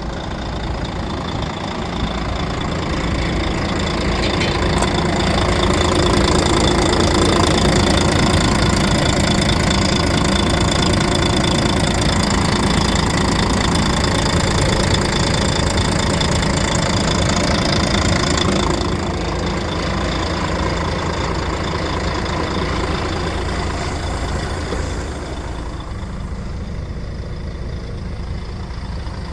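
Diesel engine of a Volvo FH12 wood chipper truck running, rising in speed and loudness about five seconds in, then dropping back in two steps, at about 19 seconds and again near the end.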